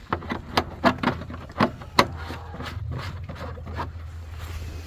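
Plastic clicks and knocks as the caps are screwed back onto plastic chicken water jugs: a quick run of sharp clicks in the first two seconds, the loudest about two seconds in, then softer handling, over a steady low hum.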